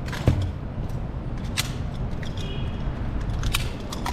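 Wind buffeting the microphone as a steady low rumble, with a few sharp clicks over it, the loudest one just after the start.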